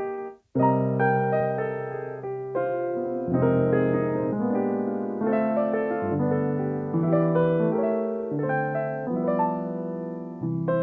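Solo piano playing a slow sequence of chords and melody notes. It cuts out suddenly for a moment about half a second in, then resumes.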